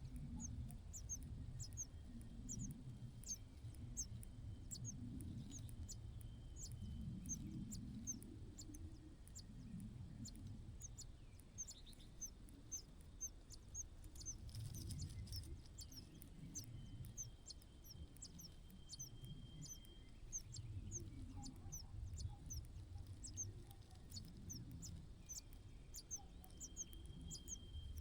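A small bird chirping over and over, short high falling notes at about two a second, over a low uneven rumble.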